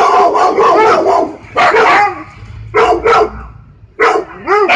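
Siberian Husky barking in loud bursts of rapid, arching barks with short pauses between, ending in a quick run of barks.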